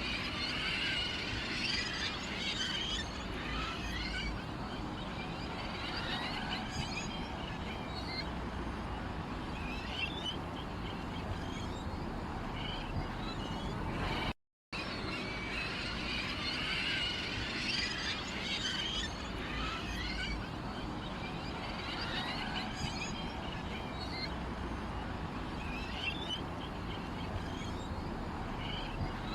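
Small birds chirping and twittering, with quick high calls scattered over a steady background. The recording cuts out for a moment about halfway through and then repeats the same stretch as a loop.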